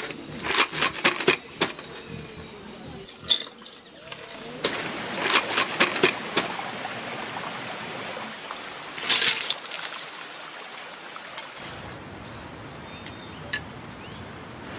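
Divining bones and shells being shaken and cast onto a mat: several bursts of rapid clicking and clattering, spaced by quieter stretches.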